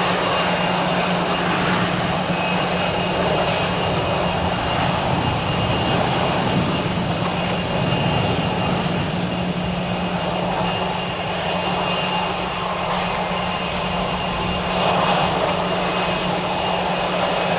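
Cessna Citation V business jet's turbofan engines running steadily, a continuous rush of jet noise with a thin high whine over a low hum, as the jet lands and rolls out on the runway.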